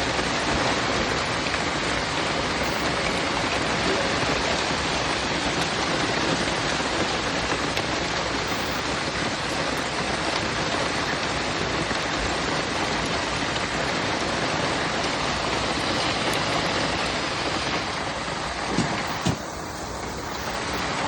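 Heavy rain mixed with hail pelting down in a severe thunderstorm, a dense, steady downpour that eases slightly near the end.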